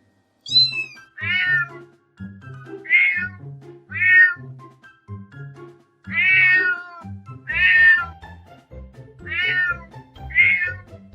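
Domestic cat meows, about eight separate cries, each under a second, the first one high and falling. Background music with low notes underneath.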